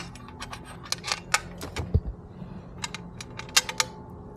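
Ratchet wrench clicking in short runs as bolts are backed out, with a dull knock about two seconds in.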